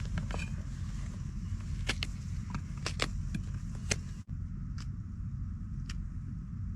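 Steady low rumble with scattered light clicks and taps, a few a second.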